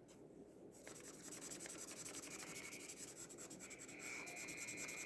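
Acrylic paint marker nib scratching and rubbing across paper in quick strokes, starting about a second in.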